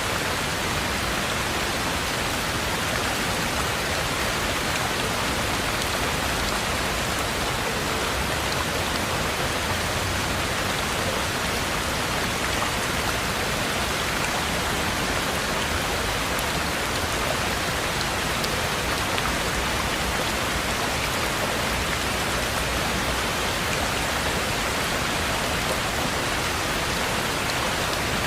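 Heavy rain falling steadily, an even hiss of rain on surfaces with no change in strength.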